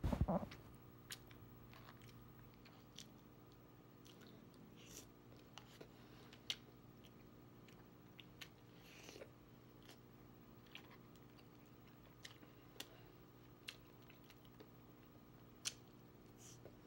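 A person chewing and eating food close to the microphone, with scattered small mouth clicks and smacks. A loud low thump comes right at the start, and a steady low hum runs underneath.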